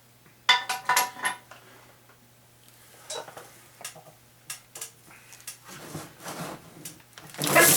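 Metal engine parts and tools clinking and clanking as a 350 small-block engine is taken apart by hand: a quick run of clinks about half a second in, then scattered lighter clinks. Near the end comes a rush of spilled water.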